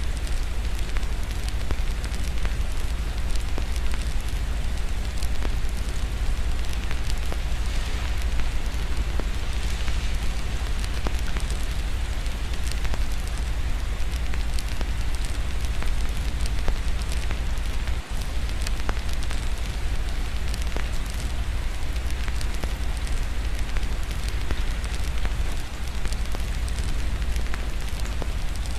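Wood fire crackling with many small snaps, over a steady hiss of rain and a constant deep rumble underneath.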